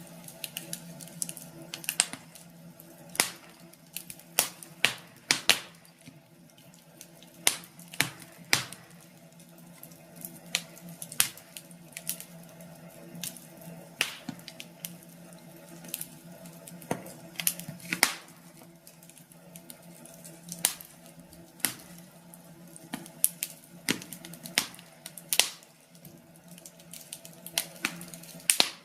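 Wood fire crackling in a fireplace: irregular sharp snaps and pops, some loud, a few clustered together, over a steady low hum.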